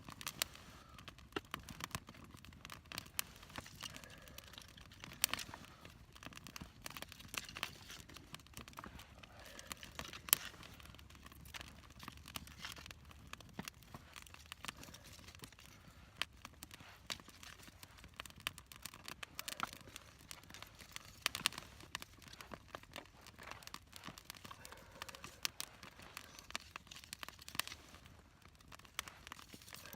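Small wood fire of feather sticks crackling, with irregular sharp pops.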